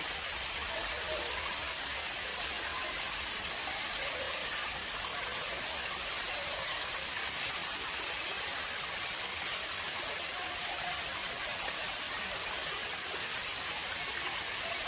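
Water flowing and splashing into an artificial pond, a steady, even rush that does not change.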